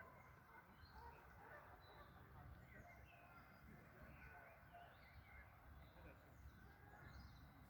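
Faint birds chirping, short scattered calls, over a low rumble.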